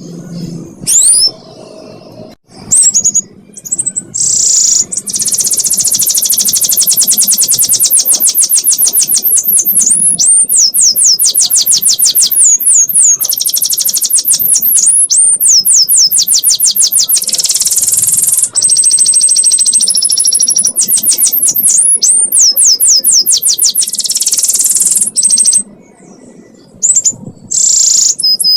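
Domestic canary singing a long ngekek song: very rapid trills of high, quickly falling notes that run on for many seconds at a time. The trills are broken by a few short pauses and one held, steady note. This is the kind of tutor song played to teach young canaries.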